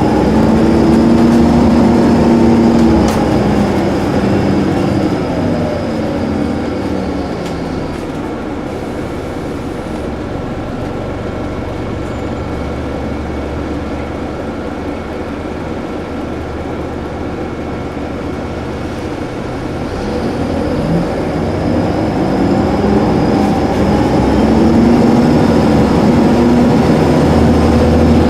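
Diesel bus engine winding down in pitch as the bus slows over the first several seconds, running steadily, then rising again about two-thirds of the way through as it pulls away, with a faint steady high whine throughout.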